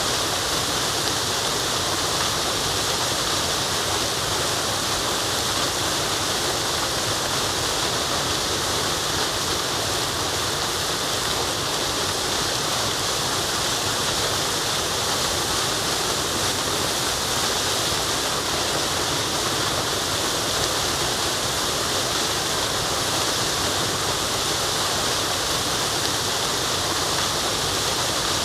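Forest waterfall: water falling and splashing in a steady, unbroken rush, with a hiss strongest in the high range.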